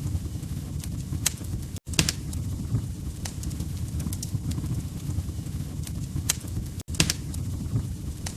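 Log fire crackling: a steady low rumble of flames with sharp pops and snaps scattered through it. The sound cuts out for an instant twice, about two and seven seconds in.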